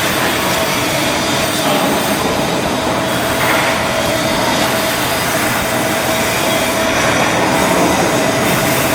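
Loud, steady industrial noise from shipbuilding work, an even rushing din with a faint steady tone running through it.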